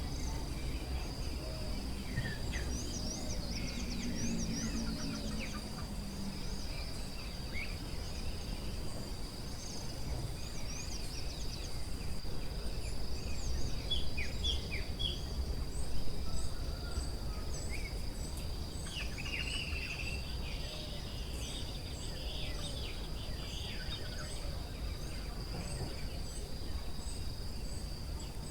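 Forest ambience: a steady high insect drone, with birds chirping and whistling over it and a quick run of repeated high bird notes in the second half, over a low steady rumble.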